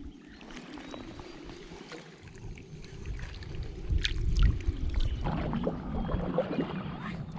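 Lake water splashing and sloshing close to the microphone, busier and louder in the second half, over a low rumble of wind on the microphone.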